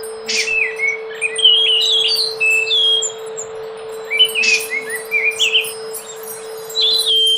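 Anis macan thrush singing: phrases of short clear whistled notes that jump up and down in pitch, three phrases with short pauses between them, over a steady hum.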